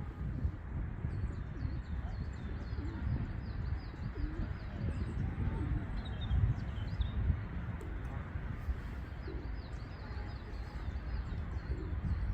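Wild birds calling: a high, rapid twittering trill twice and a few low cooing notes like a dove's, over a constant low rumble.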